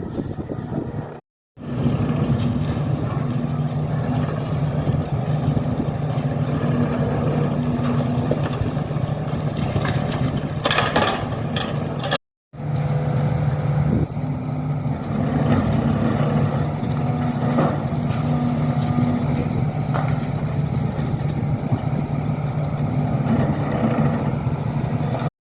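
Heavy diesel machinery working on a demolition site, its engine running steadily. There is a louder, noisy stretch about ten seconds in, and the sound cuts out briefly twice.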